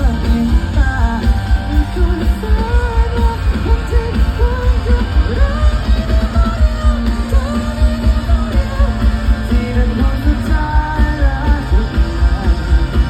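A pop-rock band playing live, with drums and bass keeping a steady driving beat under singing.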